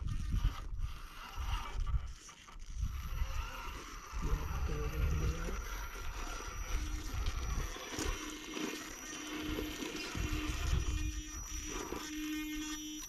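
Electric motor of an RC rock crawler whining as it crawls over the course. Its pitch wavers with the throttle and it gets stronger in the second half. Wind buffets the microphone with gusty rumbling throughout.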